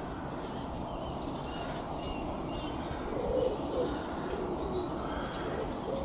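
Low bird calls: a short phrase of several low notes about three seconds in, with a few faint high chirps shortly before it, over steady low background noise.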